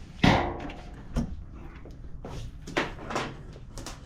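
A heat gun being moved and set down on a workbench: a loud clunk just after the start, then several lighter knocks and clatters of handling.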